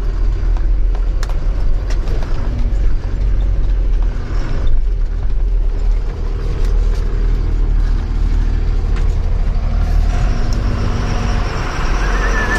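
Truck running with a heavy steady low rumble and scattered knocks and rattles. A steady pitched tone joins it near the end.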